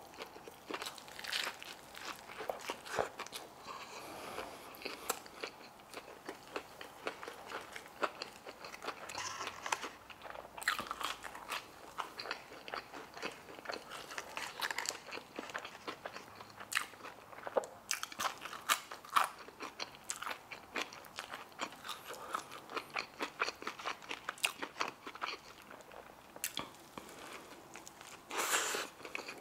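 Close-up chewing and crunching of crispy fried chicken on a slider bun and crinkle-cut fries: many sharp, irregular crunches between quieter chewing, with a denser, louder crunchy bite near the end.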